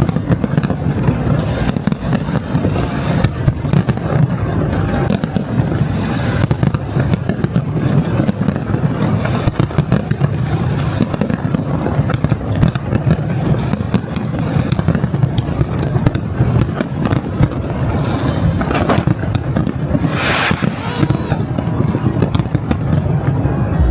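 Large fireworks display going off without a break: a dense barrage of deep booming bursts and sharp cracks, with a burst of high crackling about twenty seconds in.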